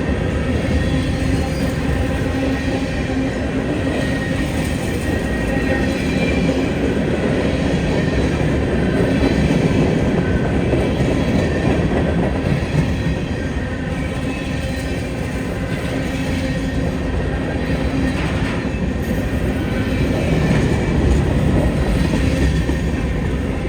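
A freight train rolling past on the rails: a steady rumble of wheels and cars, with faint thin tones above it.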